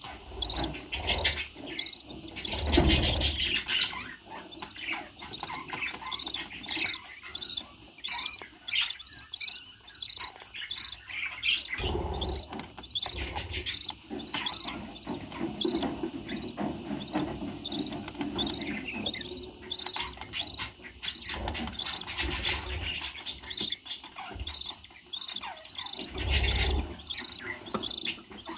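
Parrot chirping and chattering in a rapid run of short calls, with a few low thumps about three seconds in, near the middle and near the end.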